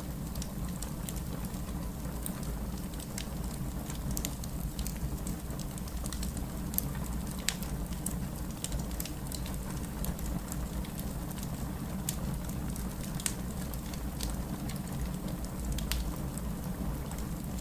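Wood fire burning in a fireplace: a steady low background of flame with frequent sharp crackles and pops at irregular intervals.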